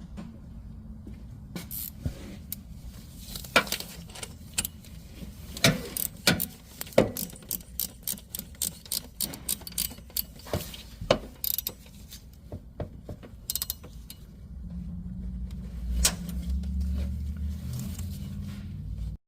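Irregular metallic clicks and knocks of hand tools working on the engine's accessory drive, ratchet-like in places. A steady low rumble sets in for the last few seconds.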